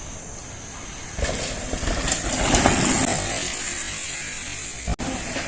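Mountain bike rolling fast down a dirt trail: tyres on loose dirt with rattling and rushing air, swelling about a second in and easing off again.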